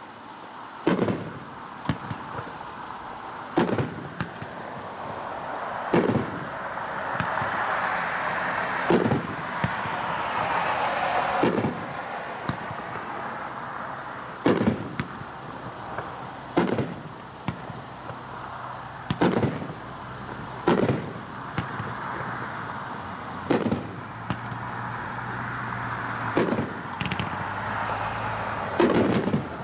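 Policewoman 16-shot 500-gram fireworks cake firing: a string of sharp booms from shell breaks, one every two seconds or so, heard from far off. A steady rushing noise runs between the reports.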